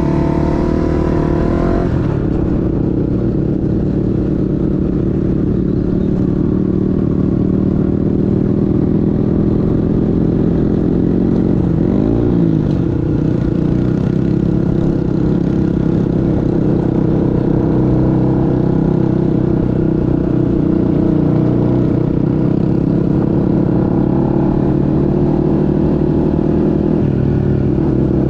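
Motorcycle engine running steadily while riding, loud and continuous. The engine note briefly dips and comes back up about twelve seconds in.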